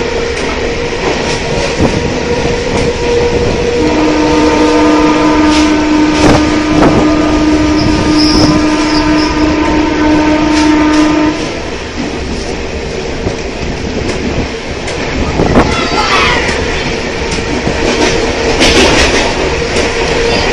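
Mumbai suburban local train running at speed, heard from its open doorway: steady rushing noise with rattling and clacking of the carriage. A train horn sounds one long steady note from about four seconds in to about eleven seconds.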